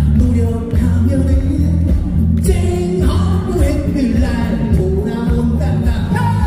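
Live trot-style music played loudly over a sound system, with a heavy steady bass and a sung or played melody line over it.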